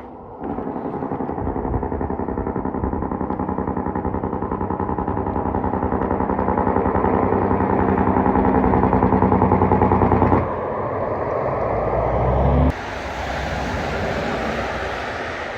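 Semi truck's diesel engine running with a fast, even pulse, growing louder for about ten seconds, then cut off abruptly; a steadier, noisier traffic sound follows after two more abrupt changes.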